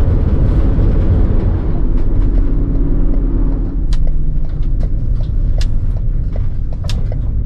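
Vehicle on the move: a steady low road rumble, with scattered sharp clicks and ticks in the second half.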